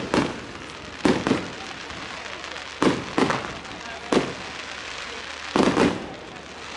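Fireworks going off in a display: a string of sharp bangs at irregular intervals, some in quick pairs, each dying away in a short rumbling echo.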